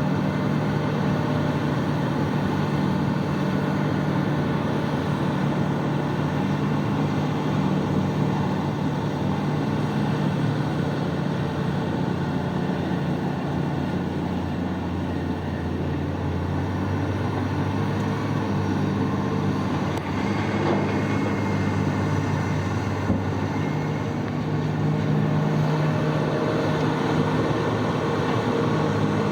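Heavy diesel engines of a big mining loader and haul trucks running steadily. The engine note drops about halfway through and rises again near the end.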